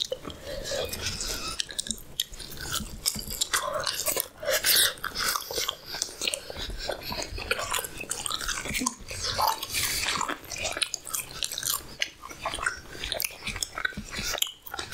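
A person chewing halwa puri, sweet semolina halwa with deep-fried puri bread, close-up mouth eating sounds with many irregular clicks.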